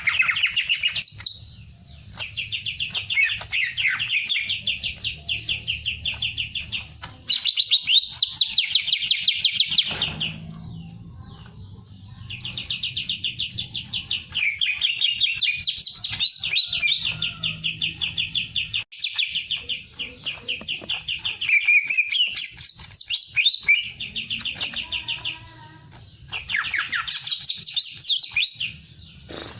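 A songbird singing without a break in long, fast trills of rapidly repeated high notes. Each run lasts a few seconds, and a brief pause comes before the next.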